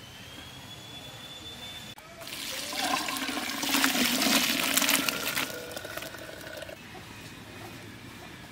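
Water poured out in a rush, starting about two seconds in, strongest for a couple of seconds and then tapering off.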